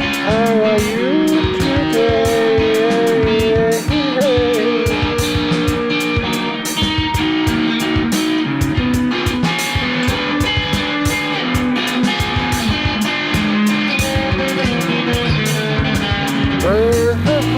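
Layered electric guitars from a Reville Q90 guitar through a Kustom PH1012 amp playing an instrumental rock passage. A lead line of sustained, bent notes runs over strummed chords, with a steady beat underneath.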